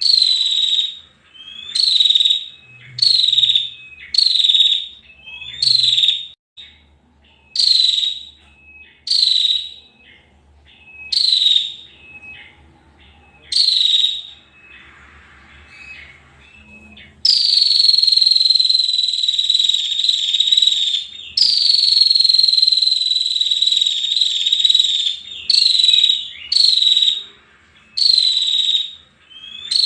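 Female prenjak (a prinia) calling: loud, high, buzzy notes repeated about once a second, each dropping slightly in pitch. About halfway through come two long unbroken buzzy trills, each a few seconds long and slowly falling, then the short repeated notes return.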